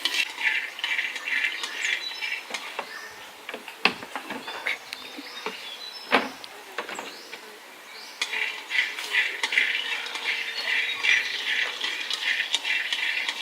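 High-pitched chirping chorus from small animals, fading out after about two seconds and coming back strongly about eight seconds in. A few sharp knocks and clinks sound in between.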